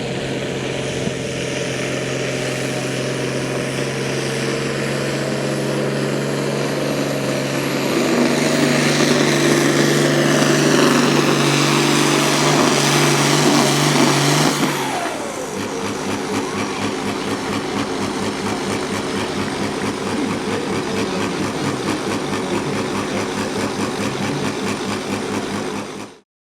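Competition pulling vehicle's engine running hard under full power during a pull, growing louder about eight seconds in. About fifteen seconds in the throttle is cut: the pitch falls and the engine settles into a quieter, evenly pulsing lope.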